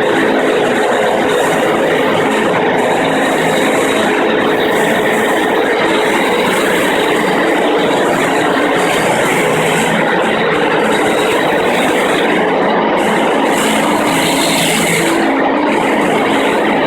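FastPrep concrete floor grinder running steadily, its diamond grinding plates cutting a concrete floor, a continuous grinding noise with a steady motor hum.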